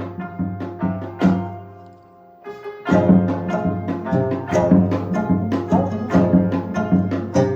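Percussion ensemble music: drums and other struck instruments played in quick rhythm over sustained pitched tones. The playing thins out about two seconds in and comes back at full strength a second later.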